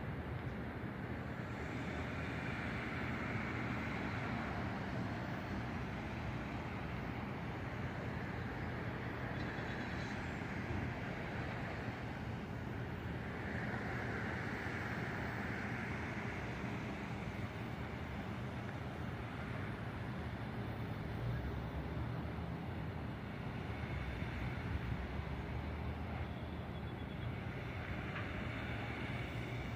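City street traffic: cars passing one after another, each swelling up and fading over a steady background hum.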